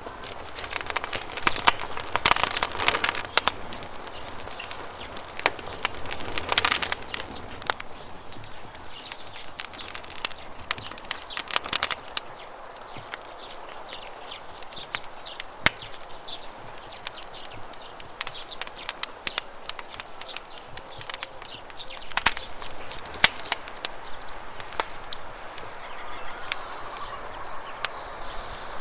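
Campfire crackling with frequent sharp pops, heavier in a couple of clusters, over a steady rush of flowing water.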